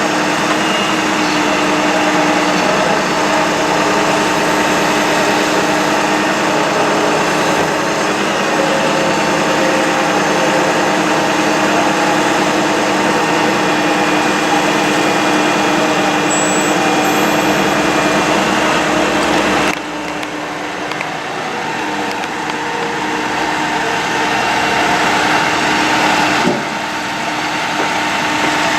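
Bucket truck running with its PTO-driven hydraulic system engaged: a steady mechanical drone with a constant whine. The sound drops suddenly about twenty seconds in and shifts again a few seconds before the end.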